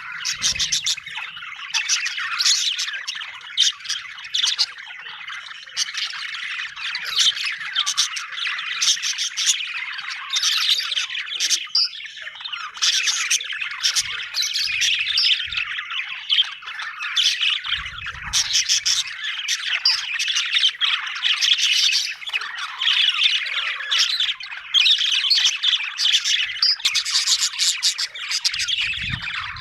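Budgerigars chattering and chirping continuously, many short overlapping warbles and squawks, several birds at once.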